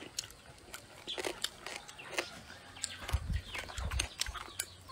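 Close-up chewing of a mouthful of spicy shredded papaya salad: a string of crisp crunches and wet mouth clicks, with a few low thumps partway through.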